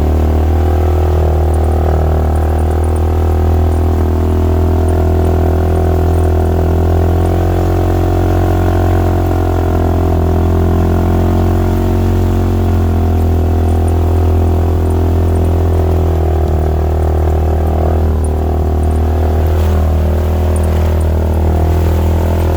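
Side-by-side UTV engine running steadily at a low, even idle, a strong unchanging hum.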